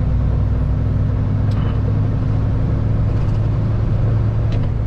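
Kenworth heavy-haul tractor's diesel engine running at a steady cruise under load, heard from inside the cab as a low, even drone with road noise.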